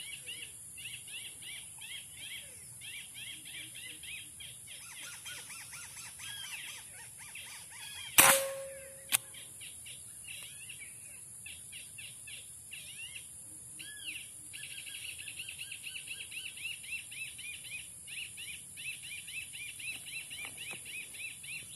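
Small birds chirping in quick repeated calls over a steady high-pitched hiss. About eight seconds in comes a single sharp crack of an air rifle shot, the loudest sound, and a fainter click follows about a second later.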